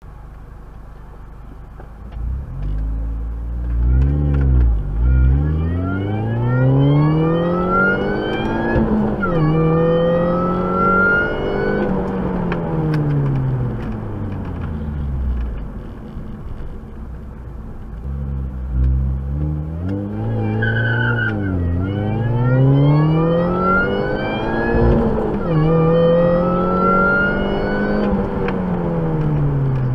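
Car engine heard from inside the cabin, accelerating hard from a standing start: its pitch climbs, drops sharply at each of two upshifts, climbs again, then falls away as the car slows. The whole run happens twice.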